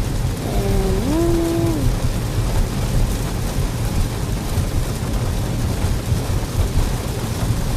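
Heavy thunderstorm rain on a moving car, heard from inside, over a steady low rumble. A short pitched vocal sound, like a brief hum, comes about a second in.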